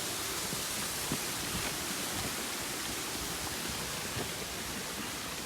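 Steady hiss of falling water, even and unbroken, with a few faint ticks.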